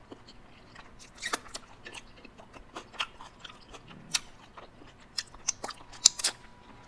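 A person chewing food close to the microphone: irregular crunches and sharp mouth clicks, some a fraction of a second apart, with louder crunches about a second in and near the end.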